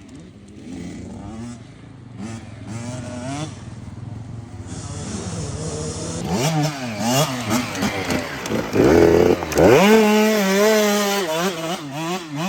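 KTM dirt bike engine revving in short throttle blips off-road. It grows louder from about halfway, sweeps up sharply near the end and is held at high revs with the pitch wavering.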